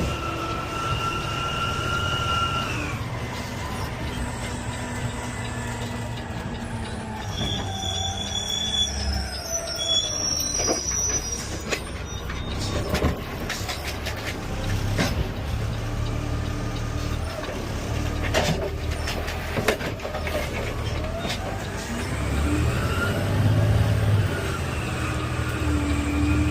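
Automated side-loader garbage truck working: the engine runs under several whines and metal squeals that rise and fall in pitch, with a few sharp knocks and clanks.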